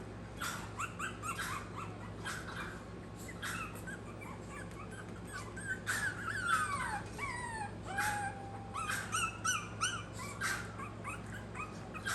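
Maltese puppies whimpering and yipping: many short high-pitched cries, with a few longer falling whines near the middle.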